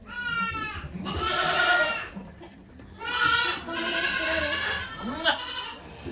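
Goat bleating: about four long, loud calls in a row with short pauses between them.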